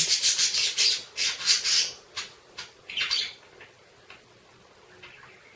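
Pet budgerigar squawking: a fast run of high, scratchy calls for about two seconds, then one more short burst about three seconds in.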